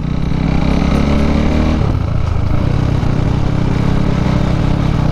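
KTM RC 390's single-cylinder engine running through an Akrapovič exhaust while riding, heard from the rider's helmet, its note shifting about two seconds in and then holding steady.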